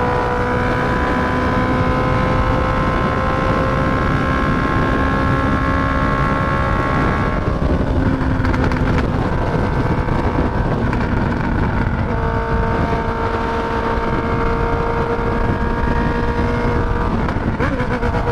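Honda CB650F's inline-four engine through an aftermarket full stainless Atalla exhaust, running at steady highway revs with heavy wind noise. The engine note breaks off about seven seconds in and settles at a slightly lower pitch a few seconds later.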